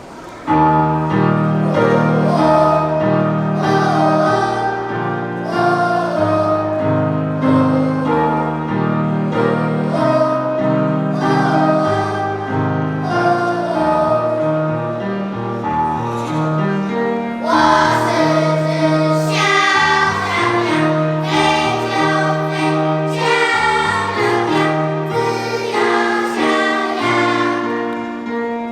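A class choir of children singing in unison with an instrumental accompaniment. The music starts suddenly about half a second in and carries on at a steady level.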